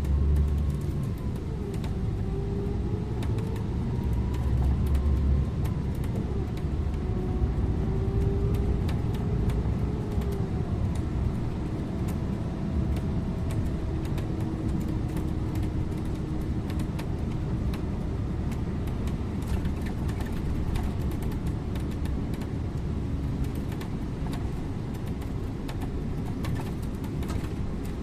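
Scania InterLink bus under way, heard from the driver's seat: a steady low engine and road rumble whose engine pitch rises and falls over the first ten seconds or so, then settles, with frequent light clicks and rattles.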